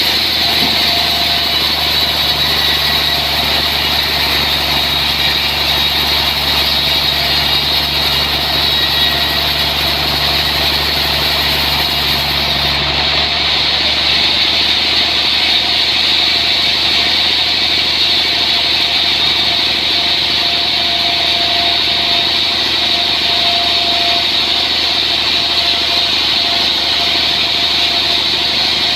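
Sawmill machinery running steadily while milling a large trembesi (rain tree) log. About halfway through, the higher hiss and a low hum drop away, but the machine keeps running.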